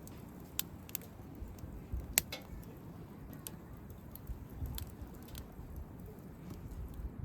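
Wood campfire crackling, with sharp, irregular pops every second or so over a low, uneven rustle.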